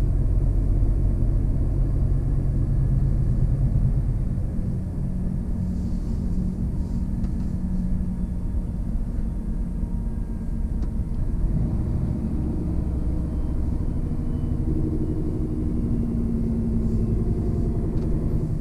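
Scania truck's diesel engine running under way, heard from inside the cab as a steady low drone. Its note eases off about four to five seconds in, and rises again near the end as the engine picks up revs.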